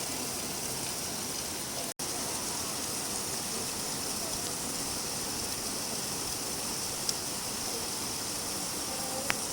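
Steady rain falling, an even hiss with no let-up. The sound cuts out for an instant about two seconds in, and two small sharp ticks, like drops striking something hard, come near the end.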